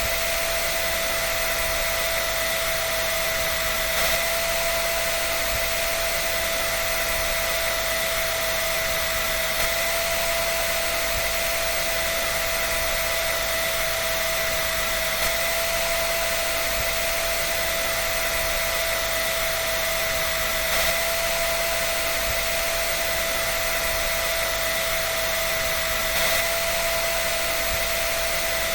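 Hair dryer running continuously: a steady blowing hiss with an unchanging motor whine.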